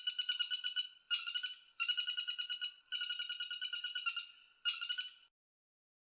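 A woodpecker calling: a rapid, high trill of repeated notes, about seven or eight a second, in five bursts broken by short gaps, stopping abruptly about five seconds in.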